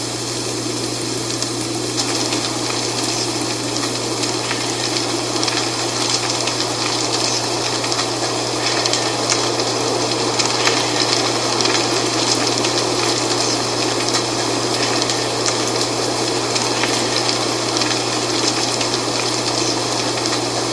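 Dry fall leaves rustling steadily in the wind, a continuous rushing hiss dotted with fine crackles.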